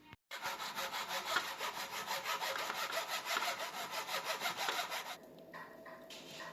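A hand saw cutting with quick, even back-and-forth strokes, about six a second, for about five seconds, then stopping.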